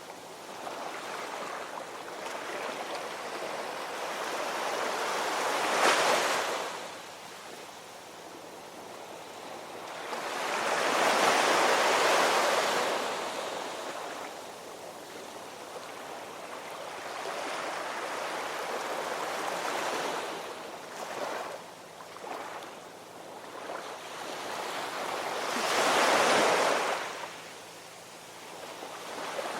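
Ocean waves breaking on a shore, the surf swelling and falling back in slow surges, the largest about six seconds in, around eleven to thirteen seconds in and near twenty-six seconds in.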